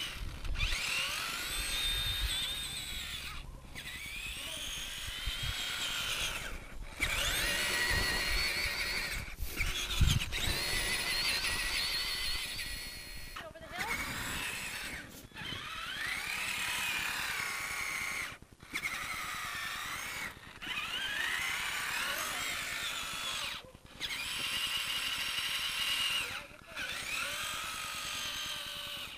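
Electric motor and geartrain of a Traxxas Summit RC truck with dually tires whining, the pitch rising and falling with bursts of throttle and cutting out briefly every few seconds. A thump about ten seconds in.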